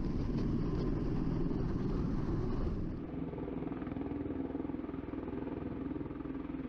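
V-22 Osprey tiltrotor's engines and rotors running as a steady low drone. About three seconds in, the higher part of the sound drops away and a lower drone carries on.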